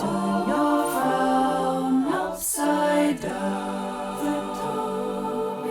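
Wordless voices singing sustained notes in harmony, a cappella, with the chord changing about every second.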